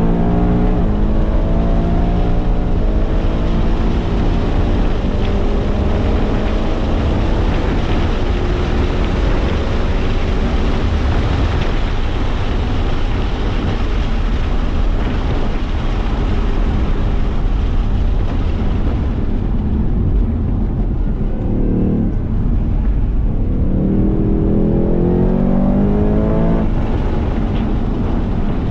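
Ford Mustang Mach 1's 5.0-litre V8 pulling hard on track, heard from inside the cabin over heavy wind and tyre noise, its revs climbing toward the top of the range. About two-thirds of the way through the engine note falls away under braking, flares briefly, then climbs again near the end as the car accelerates out of the corner.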